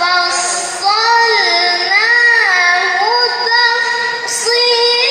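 A child's high voice reciting the Qur'an in melodic tilawah style, holding long notes that glide up and down between pitches with ornamented turns.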